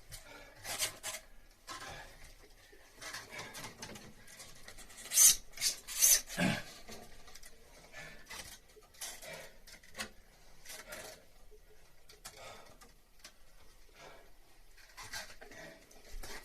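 Irregular rubbing and scraping from hand work on materials, with a cluster of louder sharp scrapes and knocks about five to six seconds in.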